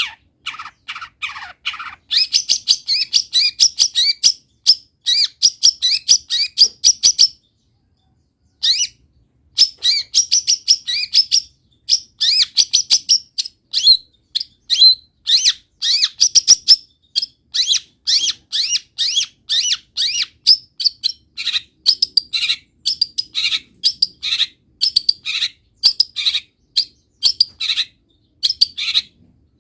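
Long-tailed shrike singing a fast, unbroken string of short chattering and whistled notes, its song filled with mimicked calls of wild birds. It pauses briefly about eight seconds in, then carries on.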